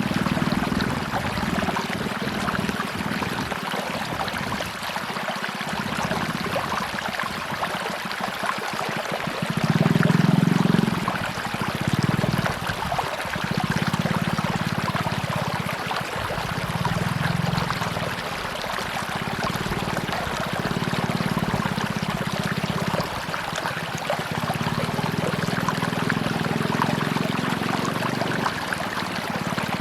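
Tropical river water rushing and splashing steadily, with deeper surges swelling and fading every few seconds; the strongest comes about ten seconds in.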